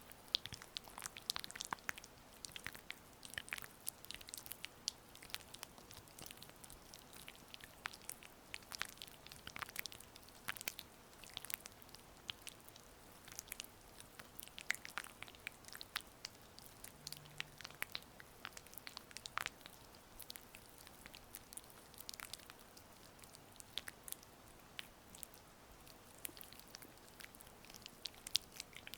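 Oiled hands massaging skin, making irregular wet, sticky clicks and crackles.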